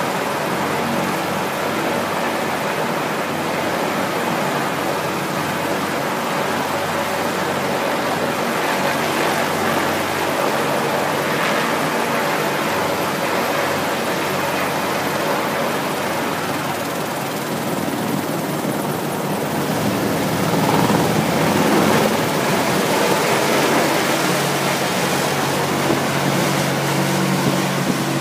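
Apache military aircraft taking off: steady engine and airscrew noise that swells about twenty seconds in.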